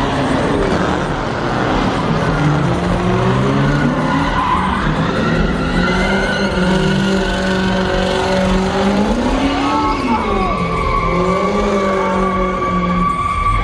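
Car engine revving up and down hard with tires squealing, as in a burnout or donuts. A steady high squeal runs through the last few seconds.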